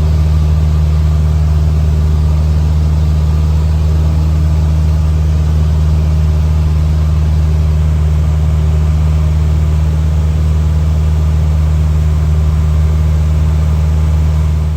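Steady, unchanging drone of a 1964 Cessna 150D's four-cylinder Continental O-200 engine and propeller, heard from inside the cabin in cruise. It cuts off suddenly at the end.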